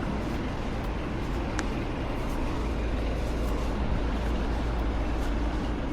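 Steady low rumble with an even hiss on top, the kind of constant outdoor noise heard from a camera carried along a city route; a brief thin high tone sounds about one and a half seconds in.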